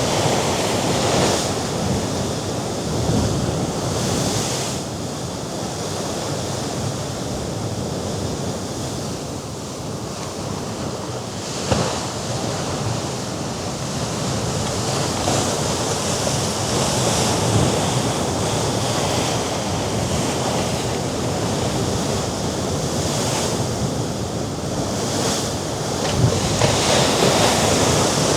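Mediterranean sea waves washing against the rocky shore below the cliffs, a continuous surf with wind buffeting the microphone. It eases a little in the middle and swells louder near the end, with one sharp tick about twelve seconds in.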